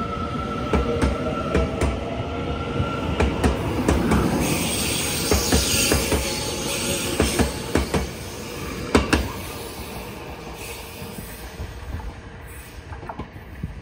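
A TEMU2000 Puyuma tilting electric multiple unit pulls out and passes close by, its wheels clicking irregularly over rail joints. A steady motor whine sounds in the first few seconds. The sound fades after about nine seconds as the last cars move away.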